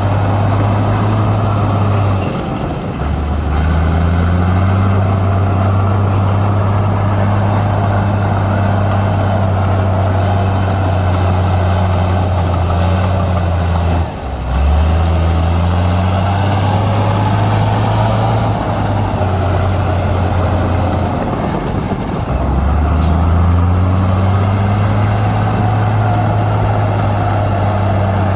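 Heavy diesel engine of earth-moving equipment running hard and steadily. Its low engine note drops briefly and climbs back three times as the load or throttle changes.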